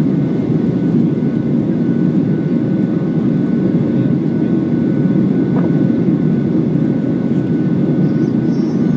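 Steady low roar of jet engines and airflow heard inside the cabin of a Ryanair Boeing 737 airliner in flight after takeoff, with a few faint steady tones above it.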